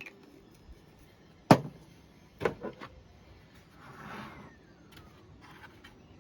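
Handling of the 3D-printed plastic helmet pieces: one sharp knock about one and a half seconds in, a few lighter knocks a second later, then a soft scraping rustle near the middle.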